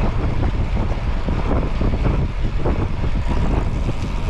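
Steady rumble of road and wind noise from travel along a road, with no single distinct event.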